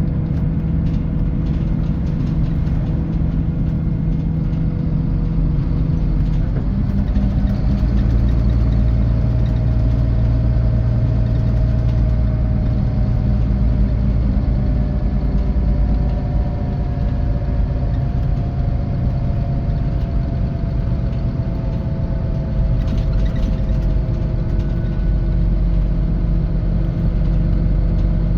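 Scania K450 coach's engine and drivetrain running under way, heard from inside the cabin. The engine note steps up about six seconds in and again about halfway through, drifting slowly down in between.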